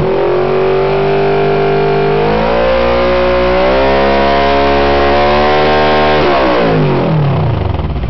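2006 Kawasaki Ninja 650R parallel-twin engine, loud through a Two Brothers Racing titanium exhaust with the baffles removed. It is held at raised revs that climb in two steps, then released about six seconds in, the pitch falling quickly back to a lumpy idle.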